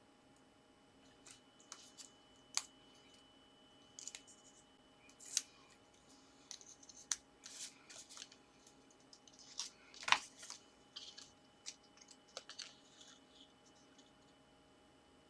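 Paper and card being handled: light rustles, scrapes and small taps at irregular moments, the sharpest click about ten seconds in, over a faint steady room hum.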